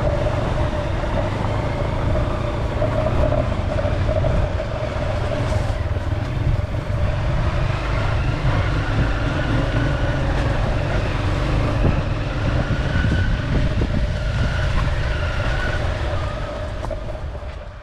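Dirt bike engine running as it is ridden downhill off-road, a steady dense rumble with a held mid-pitched whine, fading out near the end.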